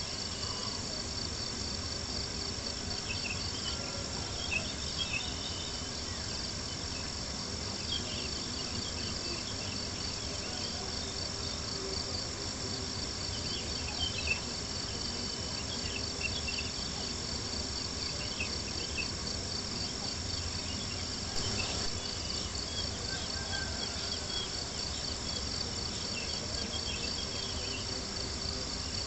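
Crickets chirping in a steady, fast-pulsing trill over a low, even rumble, with scattered small pops and crackles from a campfire.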